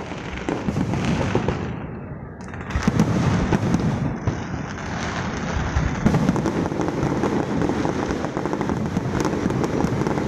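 Fireworks display: a dense, continuous run of bangs and crackles. It eases briefly about two seconds in, then picks up again.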